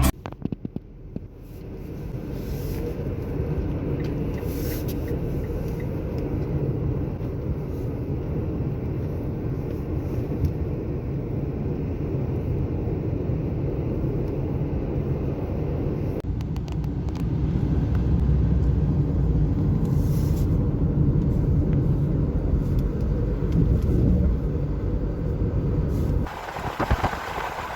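Steady low rumble of a moving vehicle. The sound shifts about two-thirds of the way through, grows somewhat louder, then changes abruptly near the end.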